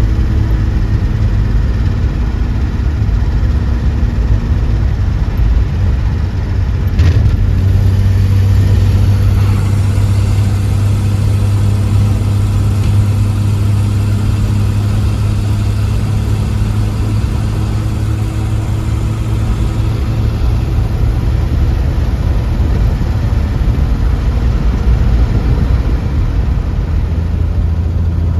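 Car engine running with road noise, a steady low hum. There is a brief knock about seven seconds in, and the engine note changes just after it.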